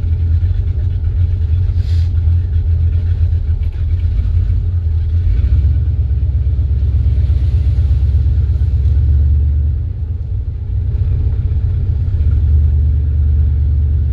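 Car engine and drivetrain running, heard from inside the cabin, as a 700R4 four-speed automatic transmission is run through its gears. The low engine note changes about five seconds in, and the sound dips briefly around ten seconds in.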